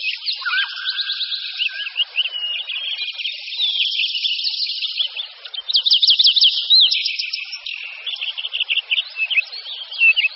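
Songbirds chirping and warbling, many quick overlapping notes that rise and fall, with a brief held whistle near the start.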